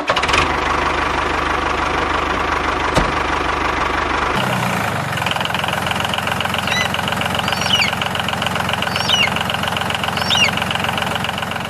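Small engine of a homemade mini tractor running steadily. About four seconds in its sound changes, losing its low end and gaining a steady high whine.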